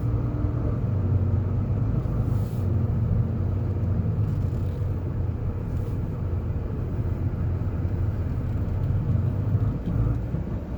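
Steady low rumble of a car driving at low speed, heard from inside the cabin: engine and road noise.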